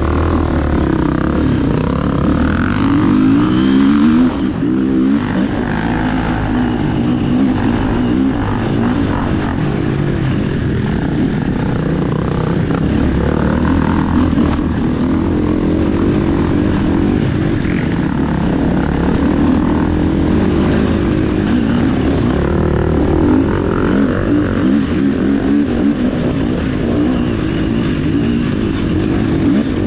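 Off-road enduro motorcycle engine running hard on a dirt trail, its revs rising and falling over and over as the throttle is worked.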